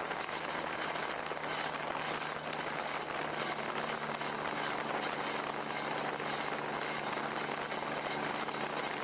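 A vehicle engine running steadily with a low hum under a constant rushing hiss.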